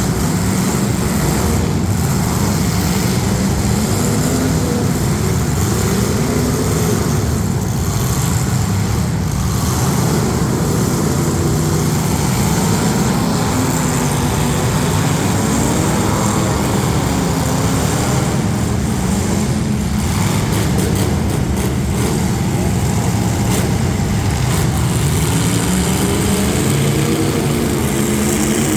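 Several street stock demolition derby car engines running and revving together, a loud continuous engine din with pitch rising and falling.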